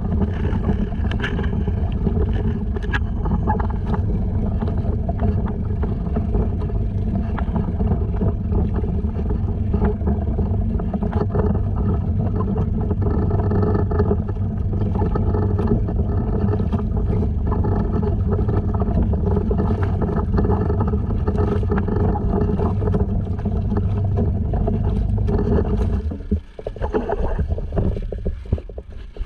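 Honda 2.3 single-cylinder four-stroke outboard running steadily, pushing a sea kayak. About 26 seconds in the motor sound drops away, leaving uneven water and wind noise.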